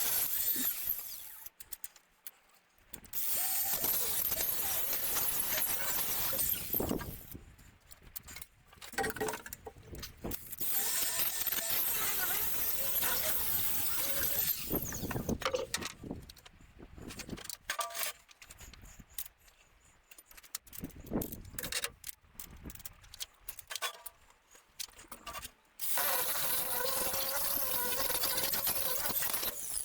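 Angle grinder cutting and grinding steel, running in several long stretches with short pauses between them, as an old welded-up hull fitting is cut off and ground smooth.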